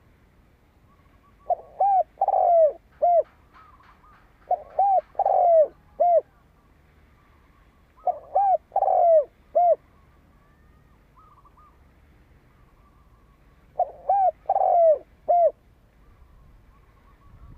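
Spotted dove cooing: four phrases of about four low coos each, repeated every few seconds, the male's call used as a decoy to draw and provoke wild doves. Faint chirps of small birds sound between the phrases.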